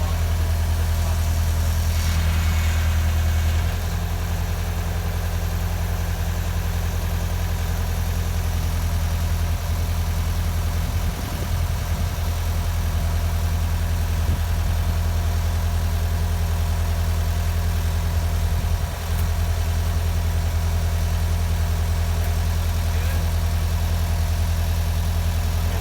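A steady low hum, like an engine idling, with a short burst of higher noise about two seconds in.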